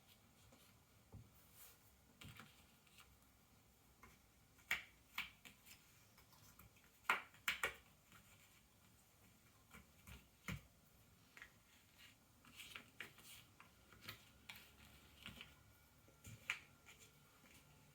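Ravensburger cardboard jigsaw puzzle pieces being handled: scattered, irregular small clicks and taps as pieces are picked up and set down, the loudest a few together a little before halfway.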